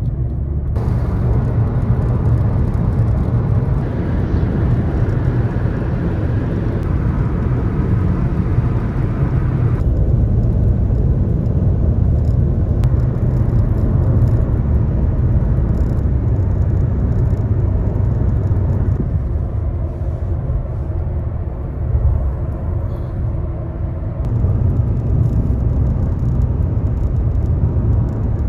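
A car driving along a road: steady engine and tyre rumble. The sound changes abruptly about a third of the way in and twice more later, as between cut-together stretches of driving.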